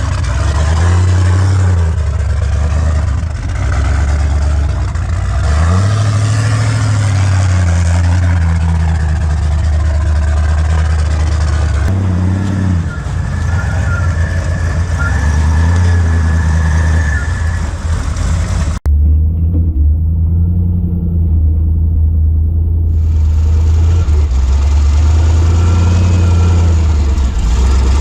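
Full-size rock-crawling buggy's engine revving up and dropping back again and again as it works over rocks. A sudden break comes about two-thirds of the way through, after which the sound is duller for a few seconds before the engine's revving carries on.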